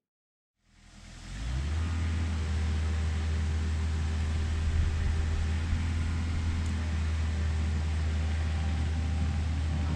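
Kubota excavator's diesel engine running steadily, fading in about a second in after a moment of silence, with a strong low hum.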